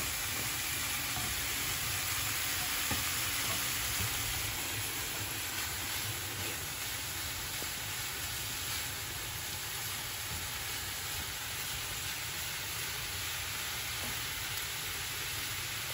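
Steady sizzling of potato chips deep-frying in hot oil, alongside döner meat slices frying in their own fat in a second pan. A wooden spatula turns the meat now and then.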